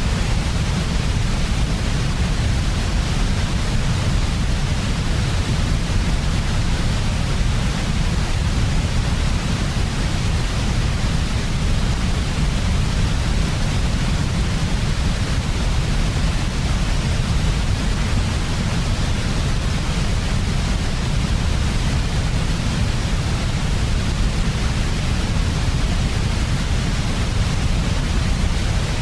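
Steady, unchanging synthetic noise of the kind played to help babies sleep: a strong low rumble with a softer hiss above it, without variation or any separate event.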